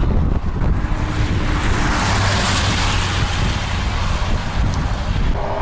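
Strong headwind buffeting the microphone with a constant low rumble. A passing vehicle's tyre and engine noise swells and fades in the middle.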